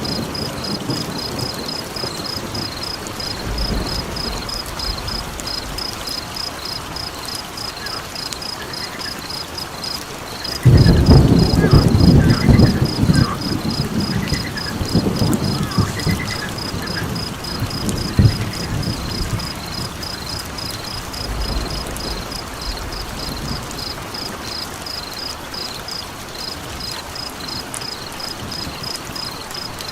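Night ambience: steady rain hiss under a fast, even, high-pitched chirping of crickets. About eleven seconds in, a rumble of thunder starts suddenly and fades away over several seconds.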